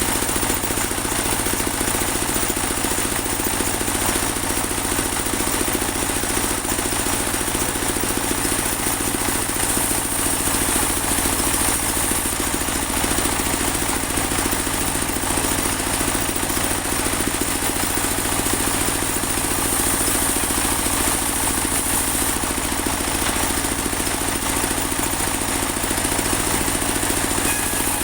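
Portable band sawmill running steadily, its engine and blade going without a break, with a constant high hiss over a fast even pulsing.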